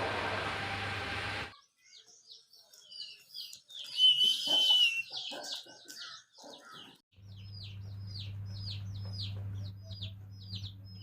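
Birds chirping: scattered high chirps with one louder whistled note, then a run of quick, evenly spaced high falling chirps over a steady low hum. It opens with a second and a half of noise that cuts off suddenly.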